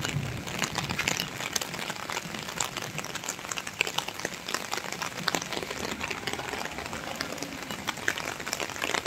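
Steady rain falling on a paved road, with many scattered sharp drop impacts.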